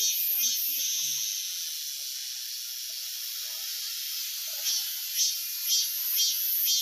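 Cicadas singing in summer: a steady high buzzing hiss, with a pulsing call at about two pulses a second in the first second, which fades, then comes back and grows over the last two seconds.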